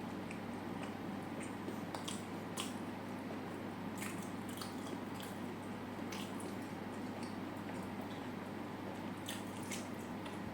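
Close-miked eating: wet chewing, with scattered sharp mouth clicks and smacks over a steady microphone hiss.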